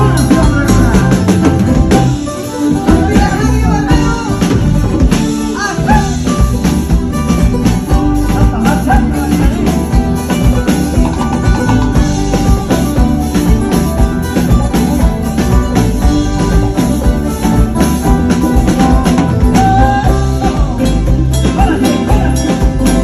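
A band playing at a sound check: drums and jingling percussion keep a steady beat over bass, with a melody line and some singing.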